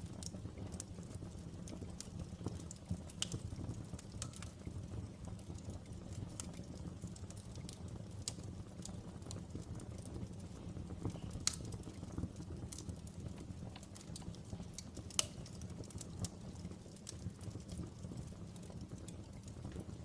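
Outdoor wood fire burning, with a steady low rumble and irregular sharp crackles and pops, the loudest two about eleven and fifteen seconds in.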